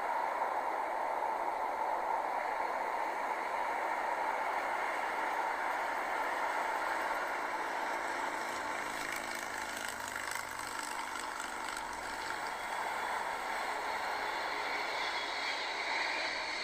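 Steady jet engine rush of a cargo airliner coming in to land in a strong crosswind, with a patch of rattling about nine to eleven seconds in.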